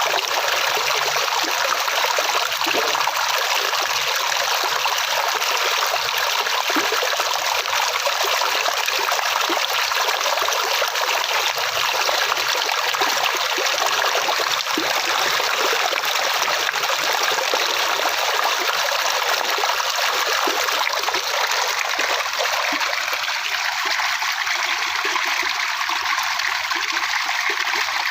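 Flowing water, a steady rushing and trickling stream sound.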